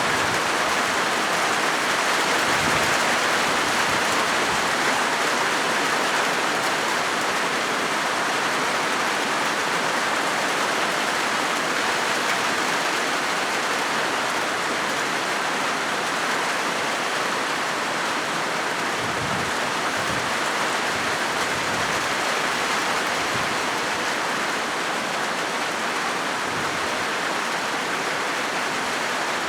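Steady rain drumming on a corrugated zinc roof, an even patter.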